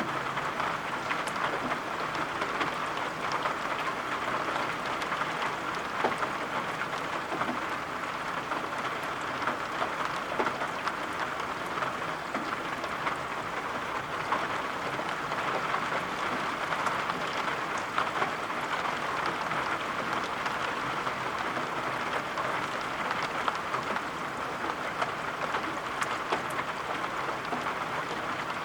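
Steady rain falling, a dense even hiss peppered with small sharp drop taps.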